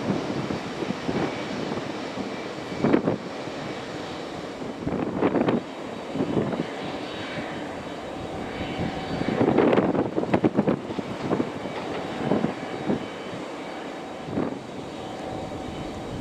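Airliner engines running, a steady rushing drone with a faint whine, under irregular gusts of wind buffeting the microphone, loudest about ten seconds in.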